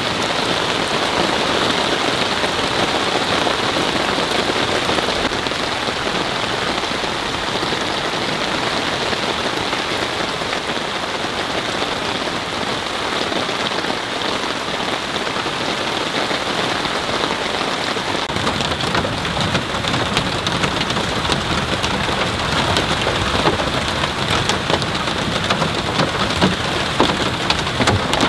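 Heavy rain falling steadily. In the last ten seconds individual drop hits become sharper and louder above the steady downpour.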